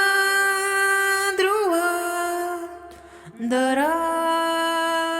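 A voice singing two long held notes, each sliding up into its pitch, with a short break midway.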